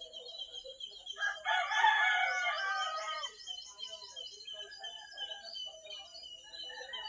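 A rooster crows once, starting about a second in and lasting about two seconds, falling in pitch at the end. Faint chirping of small birds continues in the background.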